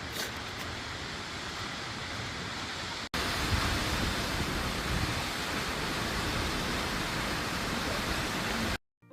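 Steady rushing of a waterfall. About three seconds in it cuts abruptly to a louder, deeper rush of falling water, which stops suddenly near the end.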